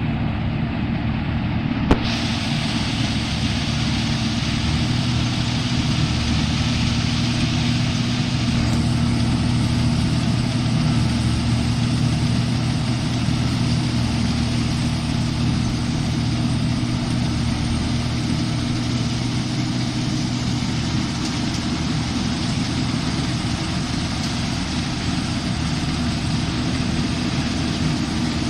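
Rice combine harvester running steadily: a constant engine drone with a wash of machinery noise over it. There is a sharp click about two seconds in, after which the noise grows brighter.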